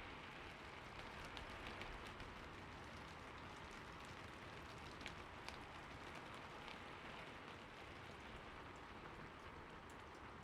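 Soft, steady rainfall with scattered drops pattering on a surface.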